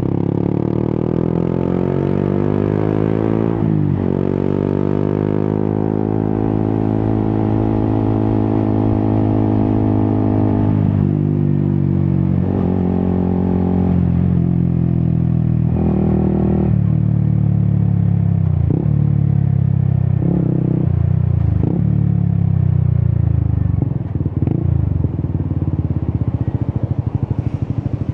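Yamaha XSR 155's single-cylinder engine through an Akrapovic exhaust, accelerating through the gears. Its pitch climbs, breaks at a shift about four seconds in, and climbs again for several seconds. It then steps down in pitch through several drops, with a few short sharp cracks as it slows, and runs low and uneven near the end.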